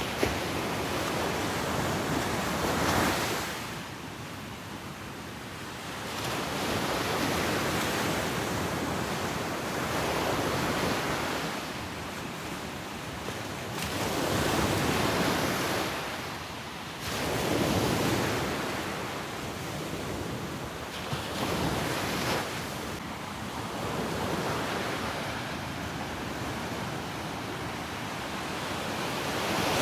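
Ocean waves breaking and washing up a beach, in slow swells of surf every few seconds, with some wind on the microphone.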